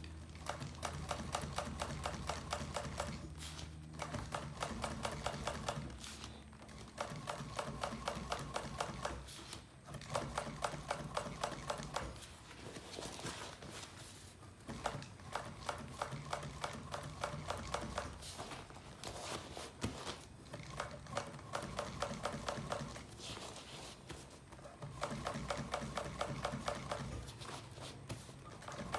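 Upholstery sewing machine stitching in short runs of rapid, even needle strokes, stopping and starting again every few seconds as the seam is guided, over a low motor hum.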